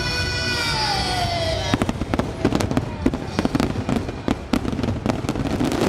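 Fireworks finale: the show's music ends on a held chord that slides down and cuts off suddenly a little under two seconds in, then a rapid barrage of firework bursts goes off in quick succession.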